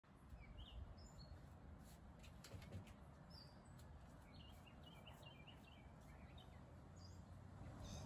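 Faint birds chirping: a few short separate chirps, then a quick run of chirped notes, over a steady low outdoor rumble.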